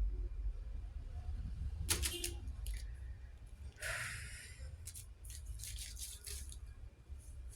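Close handling noise: scattered clicks and rattles over a low rumble, with one short hissing burst about four seconds in.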